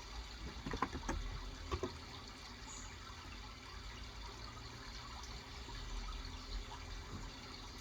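Steady trickle of running water, with a few soft keystrokes on a Cox Endeavor electrostatic-capacitive 35 g keyboard about a second in and again just before two seconds.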